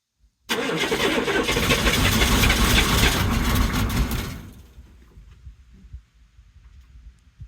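Humvee's V8 diesel being cranked cold by its starter, a loud rapid churning for about four seconds that then stops without the engine settling into an idle. This is a hard cold start: the engine has sat in below-zero cold with no block heater.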